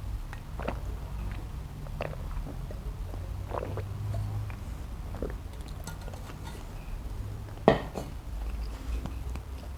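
Close-miked eating of a cheeseburger: chewing, with scattered small mouth clicks. A single sharp knock, the loudest sound, comes near the end, like something set down on a tray or table.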